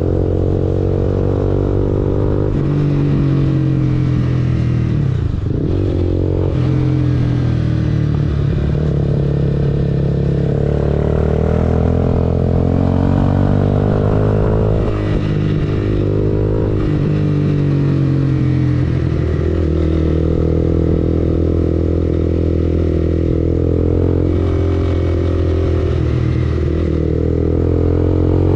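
Honda CBR250R's single-cylinder engine running through an Akrapovic aftermarket exhaust, its pitch repeatedly rising under throttle and then dropping back, again and again.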